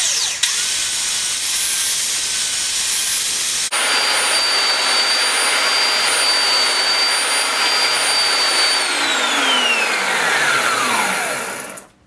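Small electric fan motor of a kerosene salamander heater running with a loud rush of air and a steady high whine. The sound changes abruptly a few seconds in. About nine seconds in the motor is switched off, and the whine falls in pitch as it winds down and stops.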